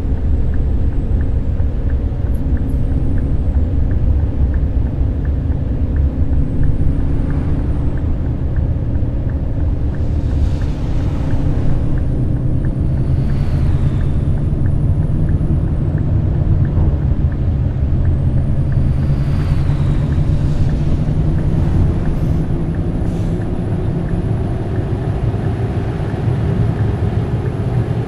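A Scania K420 double-deck coach's inline-six diesel engine running steadily under way, over a continuous low road rumble. The engine note drifts slowly in pitch, and a faint high whine comes and goes above it.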